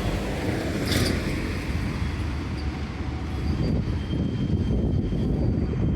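A tram running by, a steady low rumble with a brief sharp screech about a second in.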